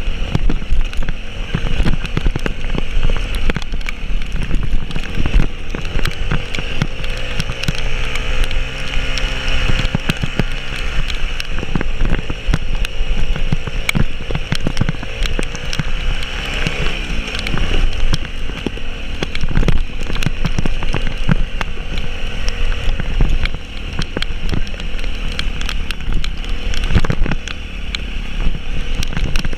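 A vehicle engine running, its pitch rising and falling as it revs, with frequent knocks and rattles throughout over a steady hiss.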